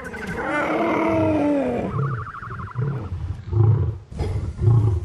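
A lion roaring: a long, drawn-out call, then short low grunts about once a second.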